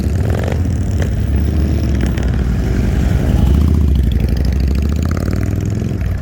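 Several Harley-Davidson motorcycle engines running at idle, a steady low rumble that swells slightly about three and a half seconds in.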